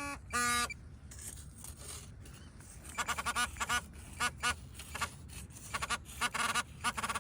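Two short steady beeps from a metal detector at the start, then ducks quacking in quick runs of short calls from about three seconds in.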